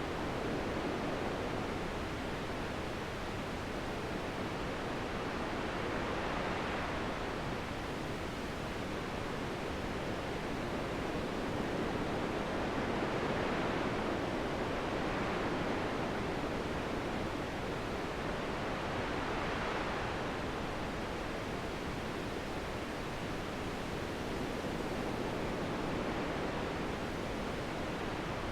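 Steady wind blowing, swelling in gusts every several seconds.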